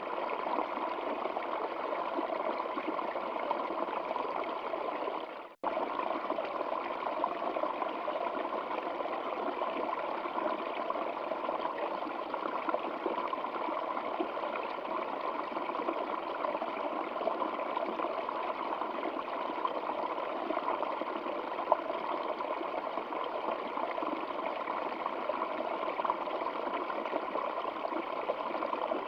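Stream water flowing steadily over rocks, a continuous rushing trickle. About five and a half seconds in it fades out for an instant and comes straight back.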